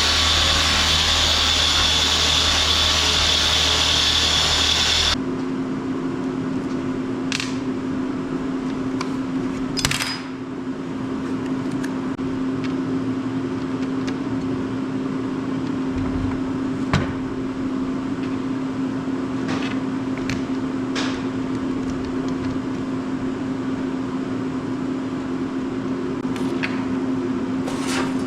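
A power tool runs loudly with a steady high whine and cuts off abruptly about five seconds in. A steady low hum follows, with a few scattered light clicks and taps.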